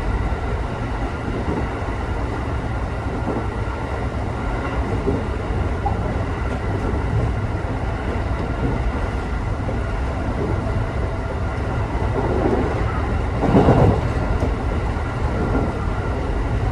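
Electric local train running at speed, heard from inside the carriage: a steady low rumble of wheels on rail with a faint steady whine over it, swelling louder for a moment about 13 seconds in.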